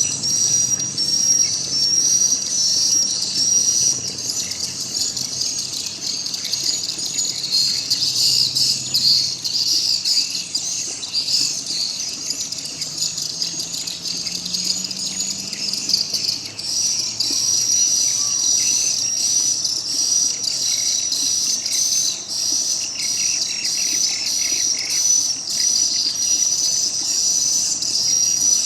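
Swiftlet calls: dense, rapid, high-pitched twittering chirps with a call pattern that repeats over and over. It is typical of a swiftlet-house lure call ('suara panggil') played to draw edible-nest swiftlets.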